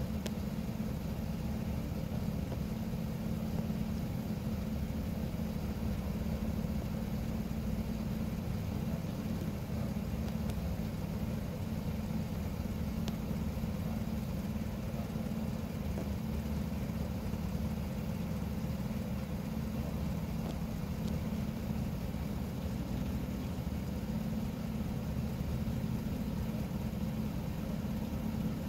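A vehicle engine idling: a steady, even low rumble that doesn't change.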